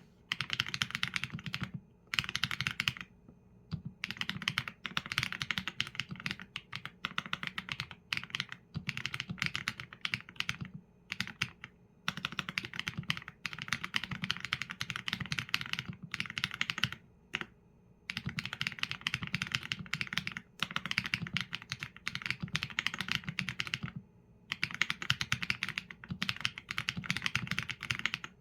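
Mechanical keyboard with Leobog Graywood V4 linear switches and PBT keycaps, typed on in fast runs of keystrokes broken by short pauses every few seconds.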